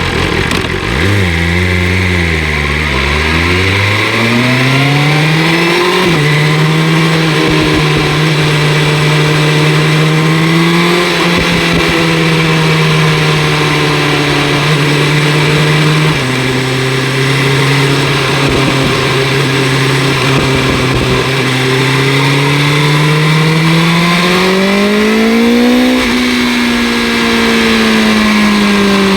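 2025 BMW S1000 RR inline-four with an Akrapovic exhaust, under way. The revs dip and climb in the first few seconds, then rise until an upshift about six seconds in. After that the engine runs at steady revs, drops with another shift near sixteen seconds, and climbs again around twenty-five seconds before easing off.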